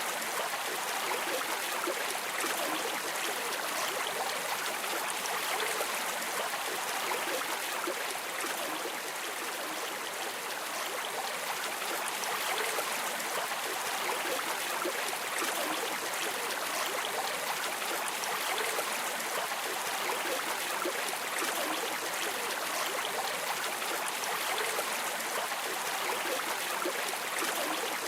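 River water streaming, a steady even rush that does not change.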